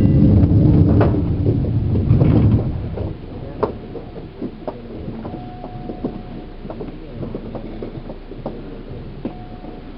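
Running noise heard inside a Seibu New 2000 series electric train car, motor car MoHa 2291. A heavy low rumble lasts about the first three seconds and cuts off suddenly. After it comes quieter rolling noise with scattered clicks and knocks, and a brief steady tone twice.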